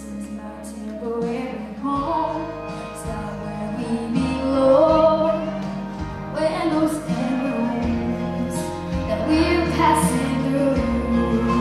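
Music with a woman singing long, sliding melodic lines over instrumental backing with a steady bass.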